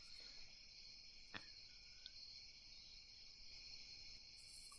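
Faint night ambience of crickets chirping steadily, with one soft click about a second and a half in.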